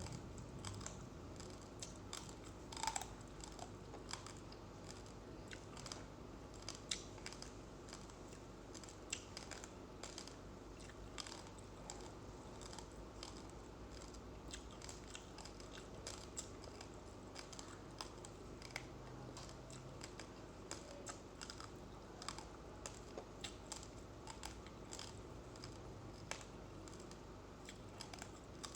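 Uncooked rice grains being chewed close to the microphone: a stream of small, crisp cracking clicks at an irregular pace.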